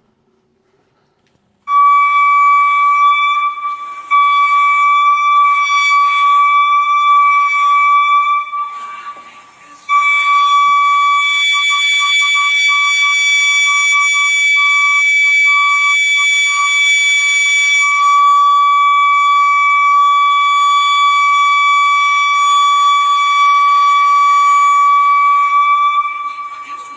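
A loud, steady high-pitched tone with a row of overtones, fading out about eight seconds in and starting again two seconds later. It is the unexplained high-pitched noise that residents have been hearing for weeks, source unknown.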